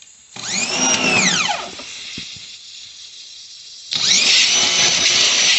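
A power tool's motor spins up and winds down, then starts again suddenly about four seconds in and keeps running at a steady pitch with a loud hiss over it.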